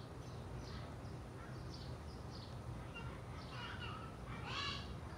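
Birds calling: a series of short chirps falling in pitch, the loudest about four and a half seconds in, over a steady low rumble.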